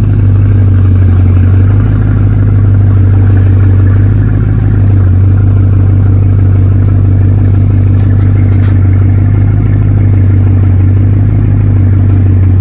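Bugatti Chiron's 8.0-litre quad-turbo W16 engine idling steadily after a cold start: a loud, deep, even drone with no revs.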